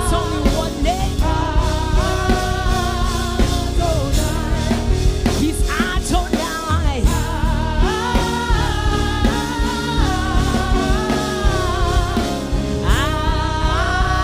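Gospel worship music: a sung melody over a full band with drums and bass.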